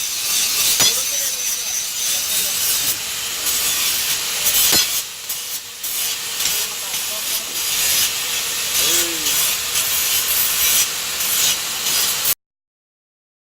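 Continuous harsh rasping of tool work on material, with a few sharp knocks, cutting off abruptly near the end.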